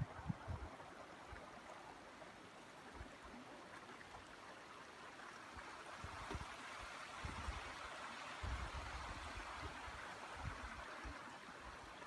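A steady rushing hiss, a little louder in the second half, with scattered low bumps.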